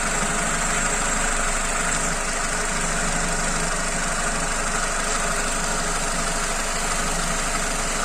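Car engine idling steadily with no knock: the AL4 automatic gearbox's torque converter is not knocking.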